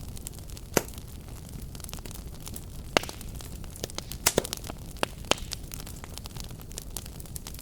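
Fire crackling in a fireplace: irregular sharp pops and snaps, the loudest about 3 seconds in and a pair a little after 4 seconds, over a steady low rumble of burning.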